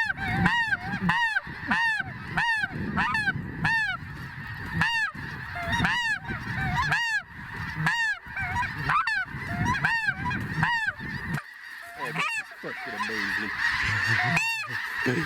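Snow geese honking: one loud, high call repeated about twice a second over the steady clamour of a large flock calling. The repeated calls stop about eleven seconds in, with one more near the end while the flock keeps calling.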